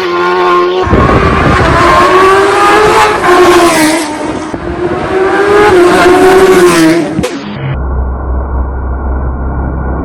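Racing motorcycle engine at high revs, its pitch rising and dropping several times with throttle and gear changes. About seven and a half seconds in it cuts off abruptly, leaving a low steady hum.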